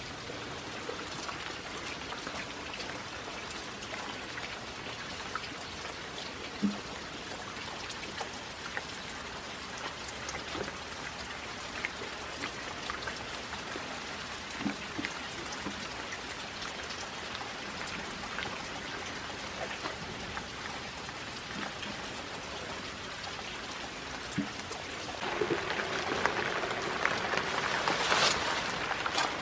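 Steady rain falling, with scattered individual drops pattering. Near the end it grows louder and heavier.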